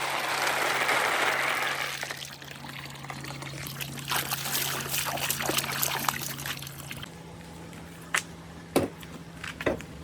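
Water pouring down a marble run track, easing after about two seconds to a quieter trickle with scattered small ticks. A few sharp knocks come near the end, with a faint steady hum underneath.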